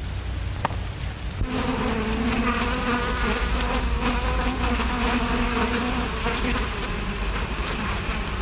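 Bee buzzing sound effect on an early talkie soundtrack: a steady, slightly wavering drone that starts about a second and a half in and fades near the end, over the constant low hum and hiss of the old film sound track.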